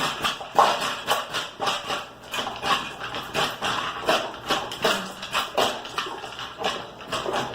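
Dogs eating from their bowls: irregular clicks and crunches, about two or three a second.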